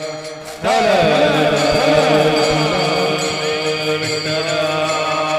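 Devotional bhajan singing over a steady held drone. About half a second in, a voice enters loudly with a long ornamented phrase that glides and wavers in pitch.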